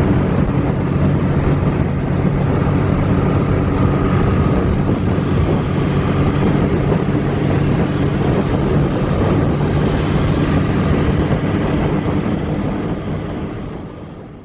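Large 1970s motorcycle engine running steadily at an even pitch, with wind noise, fading out over the last couple of seconds.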